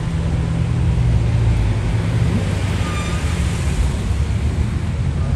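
Car engine droning at a steady pitch under constant load, with no revving up or down. A faint short high-pitched tone shows about halfway through.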